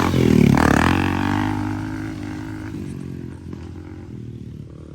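Dirt bike engine revving hard as the bike passes close by, then fading steadily as it rides away.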